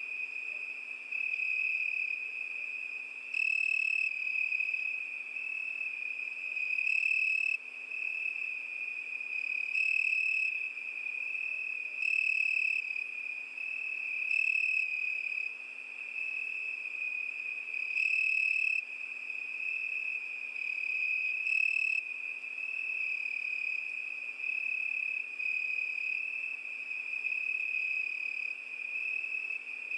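Crickets chirping: a continuous high-pitched trill, with a louder chirping stretch swelling up every two to four seconds.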